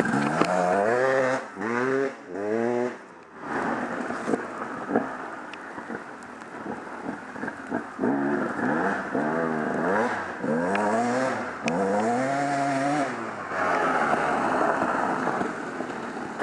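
Off-road vehicle engine accelerating hard, its pitch climbing through three quick rises in the first few seconds, then easing off and pulling up again in longer rises further on, over a steady rushing noise.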